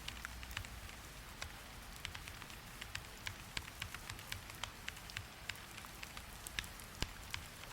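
Steady rain hiss with scattered short, sharp clicks, a few a second at irregular spacing.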